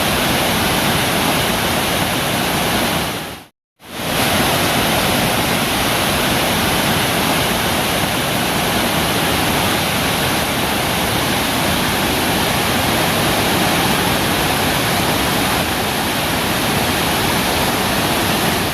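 Waterfall pouring, a steady loud rush of falling water. It cuts out for a moment about three and a half seconds in, then comes straight back.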